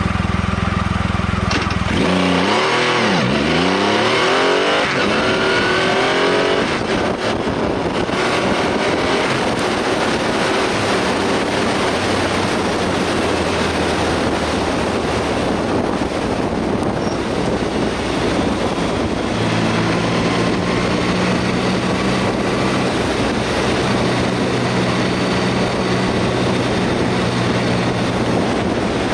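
Triumph Rocket III Roadster's 2.3-litre three-cylinder engine idling, then pulling away hard about two seconds in, its pitch climbing and dropping through several quick upshifts. After that a steady rush of wind and road noise covers it, with the engine holding a steady cruise.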